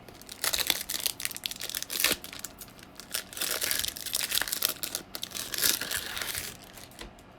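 Plastic wrapping on 2021 Bowman trading-card packaging being torn open and crinkled, in irregular crackling bursts for about six seconds.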